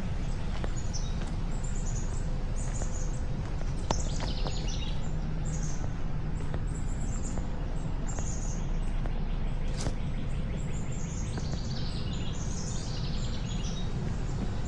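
Small songbirds chirping in many short, high calls throughout, with a couple of quick descending trills, over a steady low rumble and a few sharp clicks.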